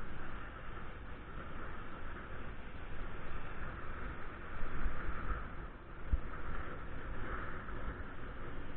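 Wind buffeting the microphone in uneven low gusts over a steady hiss of road noise while riding a bike.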